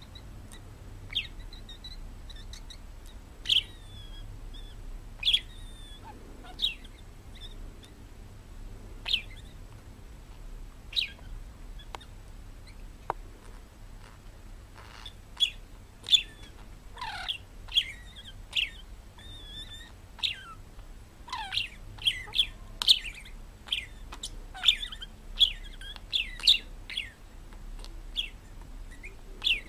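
Parrot chirping in short, sharp, high calls, some sliding down in pitch. The calls come every second or two at first and grow much more frequent about halfway through.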